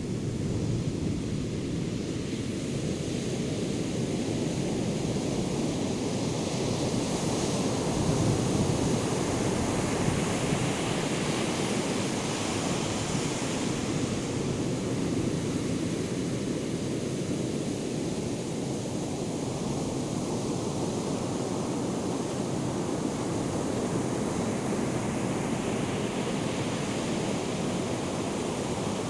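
Ocean surf from a hurricane swell, waves breaking and washing in continuously, swelling twice into a louder hiss of breaking water. Wind is on the microphone.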